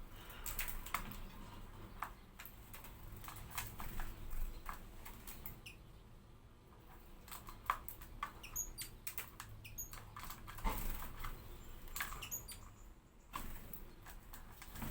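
Hawfinch making irregular clicks and taps, a small bird moving about and pecking, with a few short high-pitched call notes in the middle and again near the end.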